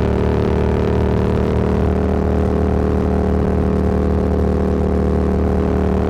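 Motorcycle engine running steadily at an even cruising speed, its note holding one pitch with no revving.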